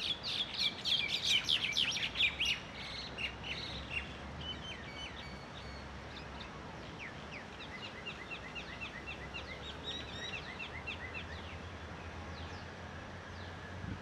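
Birds chirping: a dense run of rapid, short, high chirps in the first two seconds or so, then sparser chirping through the rest.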